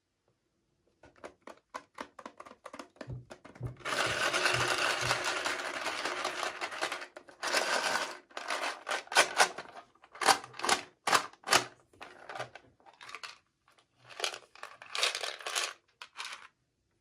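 Toy packaging being handled and opened: crinkling and tearing with a run of sharp clicks and taps, a long stretch of rustling a few seconds in and shorter ones near the end.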